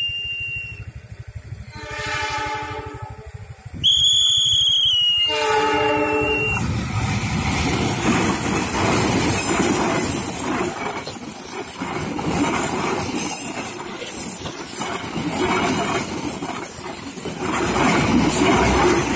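Diesel-hauled Gajayana passenger train at a level crossing. Its horn sounds twice on the approach, faintly about two seconds in and louder about five seconds in, with a shrill high tone at the very start and again about four seconds in. The carriages then rumble and clatter past over the rails.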